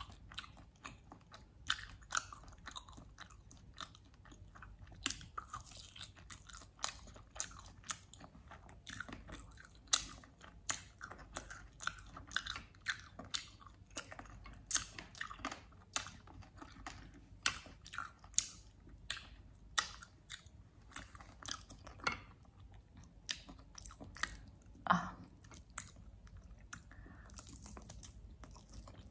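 Close-up chewing and biting of mutton chop meat pulled off the bone, with many irregular sharp wet mouth clicks and smacks, several a second.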